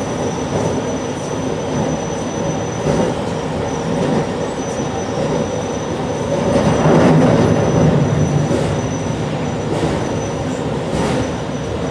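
JR Shikoku 8600 series electric train running at speed, its wheel-on-rail noise heard from the cab. The noise swells about six seconds in and eases again, with a thin high steady whine over it and a few sharp clicks near the end.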